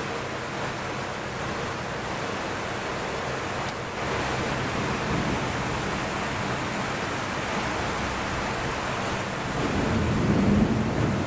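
Heavy rain pouring steadily, a dense even hiss. A low rumble swells near the end.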